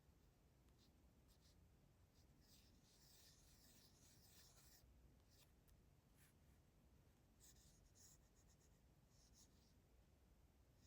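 Faint scratching of a drawing tool on sketchbook paper, in short strokes with pauses between them, densest a few seconds in.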